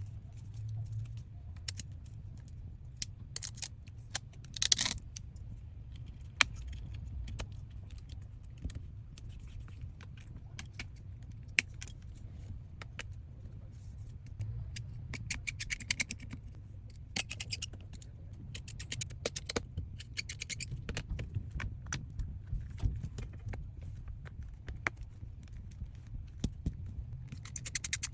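Small hand tools and phone parts clicking and scraping during an iPhone battery replacement: many sharp little clicks, with several short scratchy scrapes, over a low steady hum.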